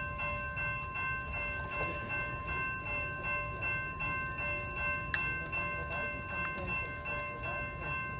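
A train rolling past with a steady low rumble and a sustained high-pitched squeal from its wheels, several tones held at once, with faint regular clicks from the wheels.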